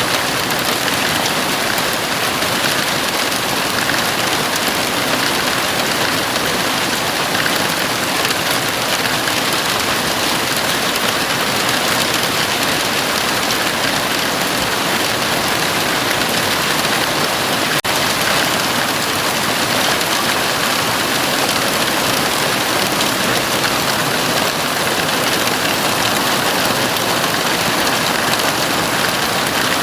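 Heavy rain falling steadily on a house roof, a dense, even hiss of drops.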